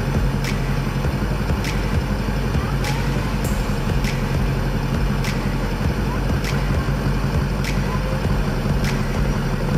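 A motor vehicle engine idling steadily, with a faint click repeating about once a second.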